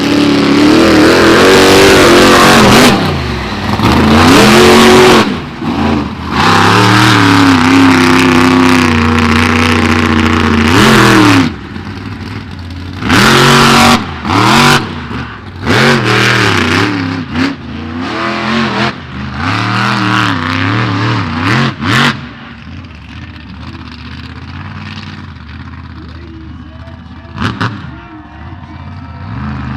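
Monster truck engine revving hard, its pitch climbing and falling with the throttle. From about twelve seconds in it runs in short bursts of throttle, then settles lower and quieter for the last several seconds.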